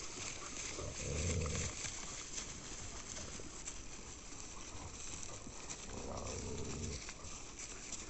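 Flat-coated retriever puppies moving about: a steady scatter of small clicks and scuffles, with two low rumbles, one about a second in and one around six seconds in.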